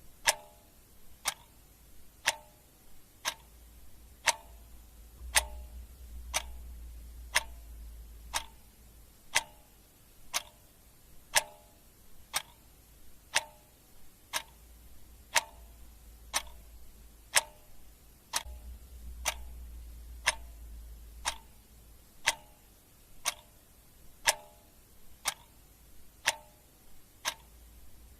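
Clock ticking steadily, one sharp tick about every second, many with a brief ringing tone. A faint low rumble swells and fades underneath.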